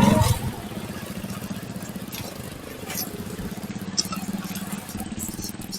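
Motorcycle engine running with a steady, pulsing hum; it drops sharply in level just after the start and then runs on steadily and more quietly, with a few faint clicks.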